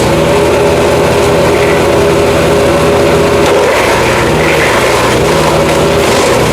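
Jansen GTS-1500 small wood chipper running steadily, its engine droning as it chips black walnut wood, with a rougher, noisier patch about four seconds in.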